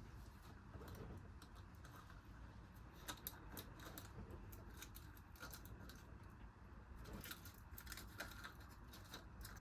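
Faint, irregular small clicks and light scrapes, like small metal or wooden objects being handled.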